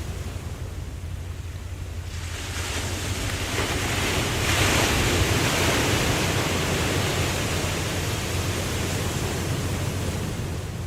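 Ocean wave washing in: the surf noise swells from about two seconds in, is loudest near the middle, then slowly fades, over a steady low rumble.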